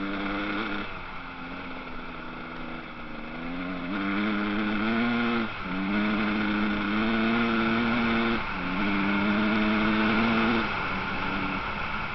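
Motocross dirt bike engine accelerating and shifting up through the gears: its pitch climbs, drops briefly at each shift about five and a half, eight and a half and ten and a half seconds in, then climbs again. Other bike engines drone steadily underneath.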